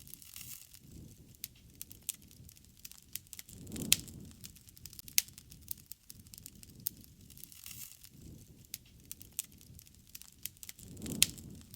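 Wood campfire crackling, with many sharp irregular pops of burning wood. A low, soft rush swells up twice, about four seconds in and again near the end, with the loudest pop about four seconds in.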